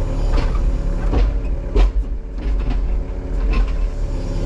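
Excavator's diesel engine running steadily under hydraulic load, with several clanks and knocks, the loudest a little under two seconds in.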